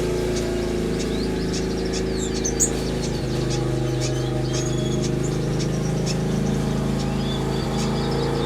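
Small aviary birds, finches, waxbills and parrots, chirping and calling in short scattered notes over a steady low mechanical drone that shifts in pitch about three seconds in.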